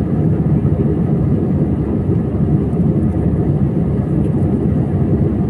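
Steady low rumbling drone of an airliner in flight, heard from inside the cabin: an even roar of engines and airflow with no distinct events.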